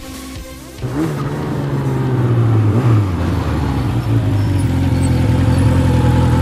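Sport motorcycle engine running, its pitch swinging up and down briefly about a second in and again near three seconds, then holding a steady note.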